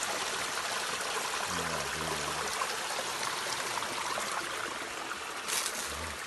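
Small waterfall pouring off a rock edge: a steady rush and splash of falling water.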